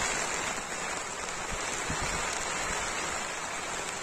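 Steady rain falling on grass, an even hiss with no change in strength, and a couple of soft low taps about halfway through.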